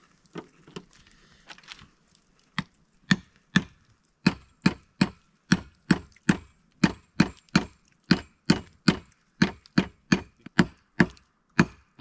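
Repeated chopping blows of a blade into the bone of a tomahawk beef steak on a wooden board, cutting notches so the steak can hang from a wire. A few light knocks come first, then steady hard strokes about two to three a second.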